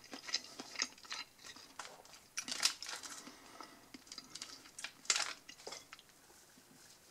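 Chewing of a breaded chicken ball: soft, irregular mouth clicks and crackles, with a sharper click about five seconds in.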